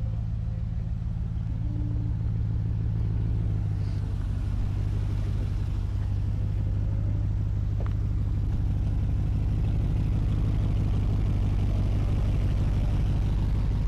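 A vehicle engine idling: a steady low hum, with one short click about eight seconds in.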